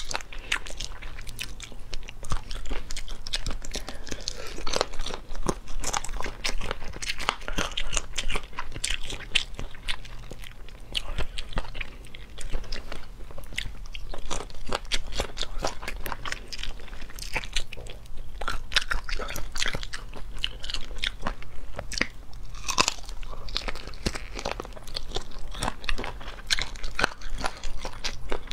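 Close-miked chewing and biting of Sichuan-pepper braised chicken feet: a steady, dense run of crunches and crackling clicks as the skin and cartilage are bitten and chewed.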